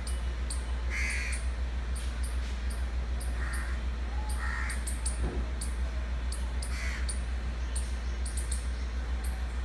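Crows cawing, four short harsh caws spread across several seconds, over a steady low hum.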